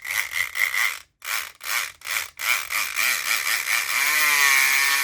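Southord E500XT electric pick gun running in a lock with a harsh, saw-like buzz. It is triggered in short stop-start bursts, then held on from about two and a half seconds in, its motor pitch wavering. The lock does not open.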